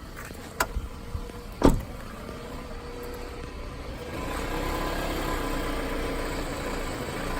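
2006 Toyota Camry engine running at low rpm, where the owner says it misfires. There is a sharp click and then a louder thump in the first two seconds. From about four seconds in the engine sound rises and holds as a louder, steadier hum.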